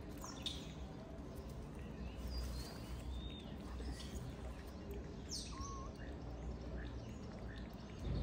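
Birds chirping now and then, a few quick falling chirps, over a steady low outdoor rumble.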